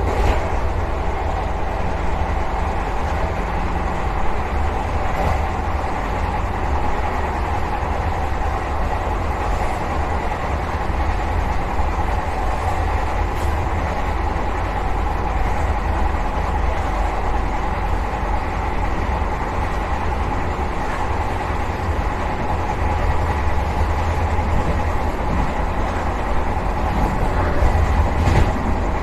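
Vande Bharat Express electric multiple unit running at speed, heard from inside the driver's cab: a steady low rumble of wheels on the rails, with a few faint clicks.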